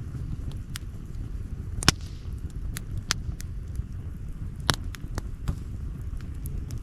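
Outdoor wood campfire crackling: irregular sharp pops and snaps, the loudest about two seconds in and near the end, over a steady low rumble.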